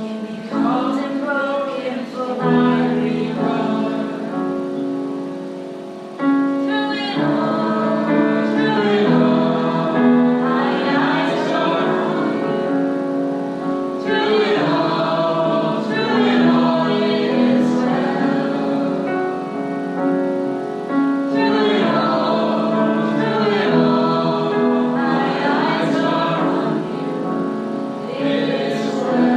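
Congregational worship singing: a group of voices singing a gospel song over sustained instrumental accompaniment, growing louder about six seconds in.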